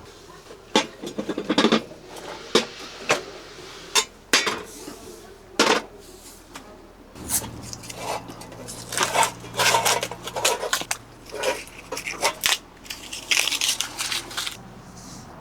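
Cutlery clinking and scraping against dishes in a run of short, irregular clinks, as food is eaten from them.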